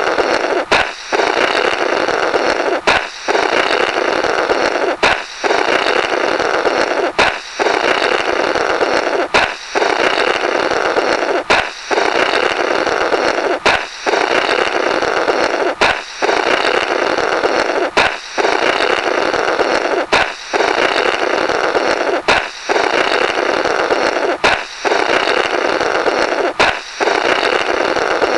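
A balloon pops, then air is blown through the burst rubber in a comical fluttering "blorrrt" lasting about two seconds. The pop and blow repeat about every two seconds, some thirteen times in all.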